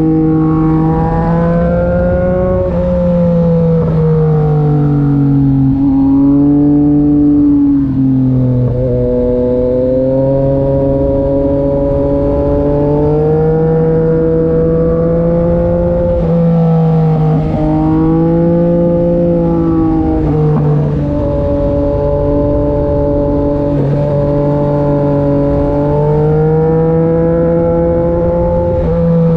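Yamaha MT-09 SP's inline three-cylinder engine through an SC-Project exhaust while riding. The engine note climbs and then drops sharply several times, as with throttle and gear changes.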